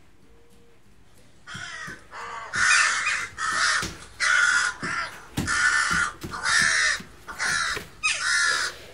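A crow cawing: after a quiet second and a half, about a dozen harsh caws come in quick succession, a little under two a second, some louder than others.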